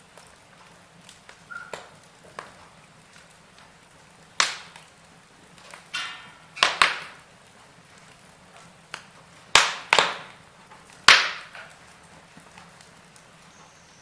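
Wood fire crackling in a fireplace: sharp pops and snaps every second or two, a few of them loud, over a faint steady hiss.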